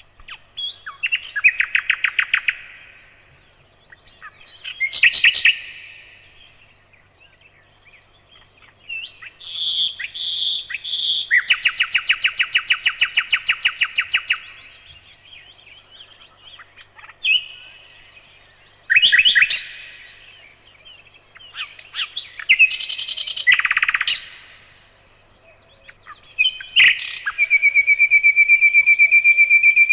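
Nightingale singing: separate phrases a few seconds long with short pauses between them, built from rapid trills of repeated notes, and ending in a long, fast-pulsed note over the last few seconds.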